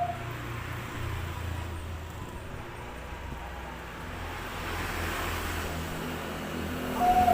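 Steady background rumble of road traffic, swelling a little partway through, with no dove cooing.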